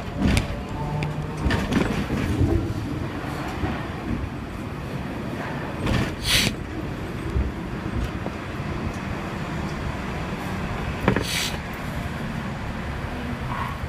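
Hong Kong tram running along its street track: a steady rumble with scattered wheel knocks, and two short hissing bursts, about six and eleven seconds in.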